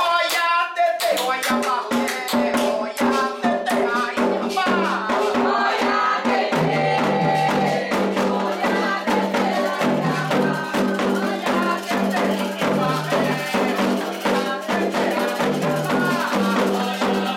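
Candomblé ritual music for the orixás: fast, dense percussion with rattles and drums under singing voices.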